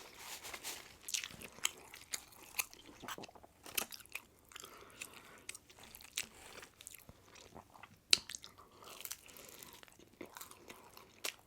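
A person chewing and biting food with irregular wet crunches and mouth clicks; one sharper crunch comes about eight seconds in.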